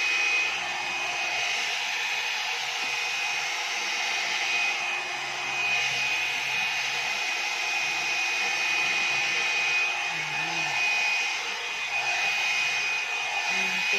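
One-step hair dryer and styler (a hot-air brush) running steadily: a rushing of blown air with a constant high motor whine.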